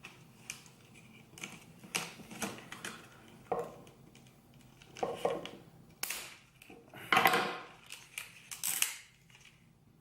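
Plastic packaging and small plastic parts being handled and opened: scattered clicks and taps, with rustling bursts, the loudest about seven seconds in.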